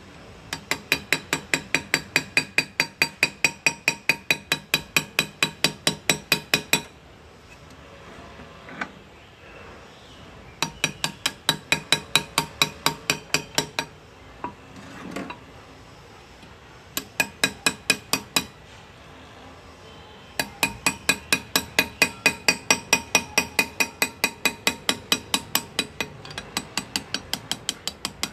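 Hand engraving: a small hammer tapping a steel graver into metal, quick regular ringing taps about five a second. The taps come in runs of several seconds with short pauses between them.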